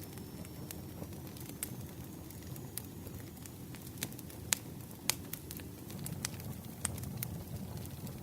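Wood campfire burning: a steady low rumbling flicker with scattered sharp crackles and pops, the two loudest pops about halfway through.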